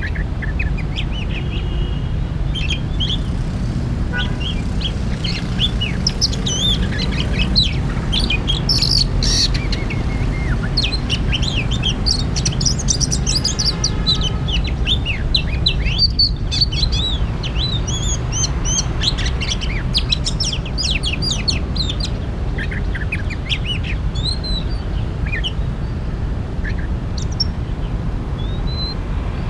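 Oriental magpie-robin singing a run of quick, varied whistled and chirping notes, heard over a steady low rumble.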